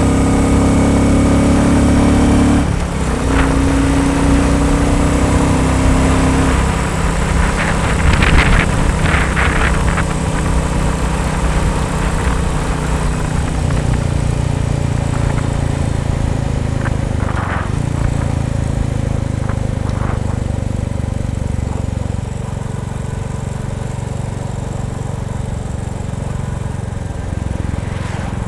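Royal Enfield Bullet 350 single-cylinder engine running, the engine note shifting in pitch a few times as revs and load change.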